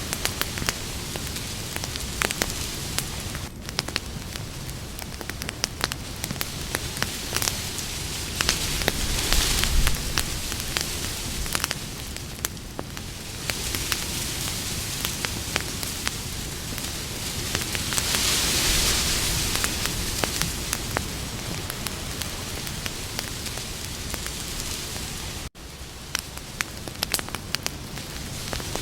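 Campfire burning with a steady hiss and many quick, irregular crackles and pops, the hiss swelling twice. There is a momentary dropout about three-quarters of the way through.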